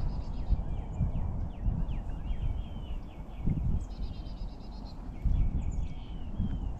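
Birds singing outdoors: short phrases of rapid high chirps, one at the start and another about four seconds in, mixed with brief down-slurred whistled notes. These sit over a louder, uneven low rumbling noise.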